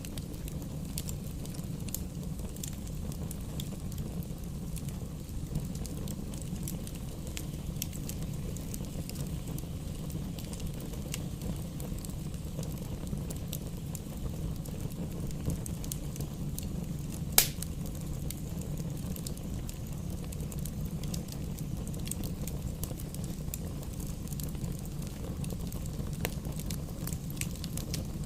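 Campfire burning: a steady low rumble of flames with scattered small crackles, and one loud sharp pop about two-thirds of the way through.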